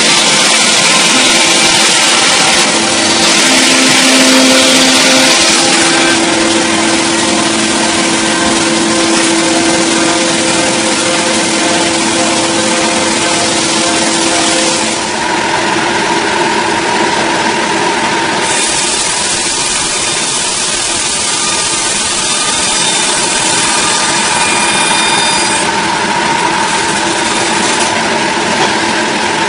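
A gas chainsaw running at high speed while cutting through a large log, a steady loud hiss of the chain in the wood over the engine note. The engine tone shifts about halfway through.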